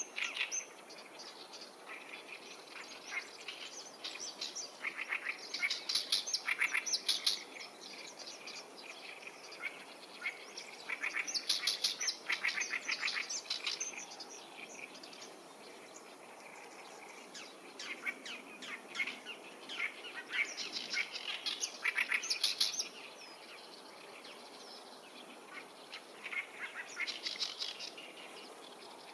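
Wild birds singing: repeated bursts of rapid, high chattering notes, each a second or two long, coming several times over a steady faint background.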